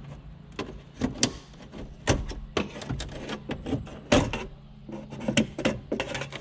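Irregular clicks and knocks of hand tools and plastic dash trim being worked while removing the screws behind the vent cover of a Jeep Wrangler TJ's centre dash bezel. The loudest knocks come a little after two seconds in and again around four seconds in.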